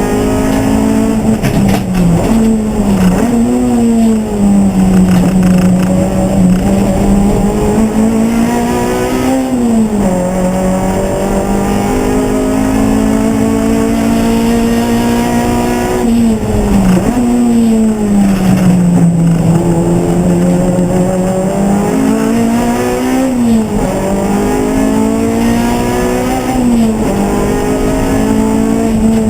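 A race car's engine under hard driving, one engine heard throughout, its pitch climbing and falling with the throttle and gear changes and dropping sharply twice, about ten and sixteen seconds in.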